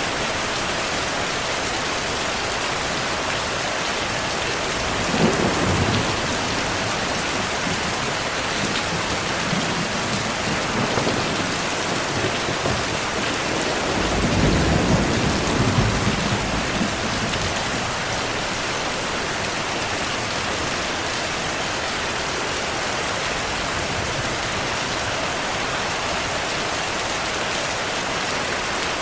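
Steady heavy rainfall with thunder: a short crack of thunder about five seconds in and a longer low rumble near the middle.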